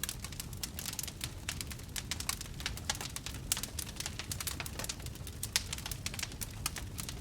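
Wood fire crackling: dense, irregular sharp pops and snaps over a low steady rumble of the burning.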